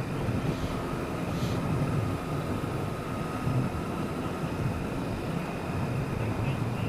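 Motorcycle underway: steady engine and road rumble, with wind noise on a helmet microphone.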